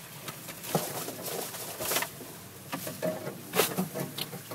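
Irregular knocks and rattles over a low, steady engine hum, heard from inside a Toyota FJ Cruiser driving an off-road trail.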